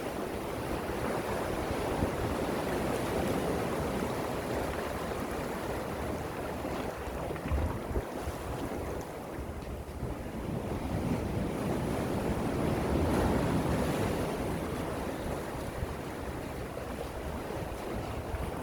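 Gentle sea waves washing in, a steady rushing that swells twice, with low gusty rumble of wind on the microphone underneath.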